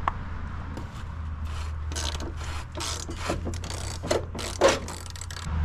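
Hand ratchet wrench clicking in irregular strokes as a cab mount bolt is worked loose on an S10 pickup's frame. A steady low hum runs underneath.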